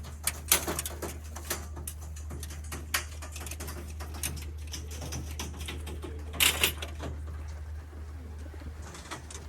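Racing pigeons cooing in a loft, with scattered sudden clatters and flutters; the loudest come about six and a half seconds in. A steady low hum runs underneath.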